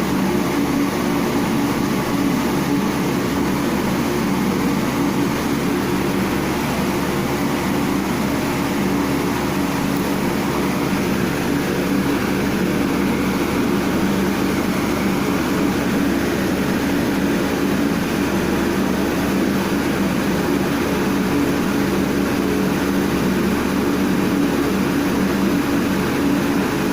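Steady mechanical hum that stays unchanged throughout, with no calls or knocks standing out.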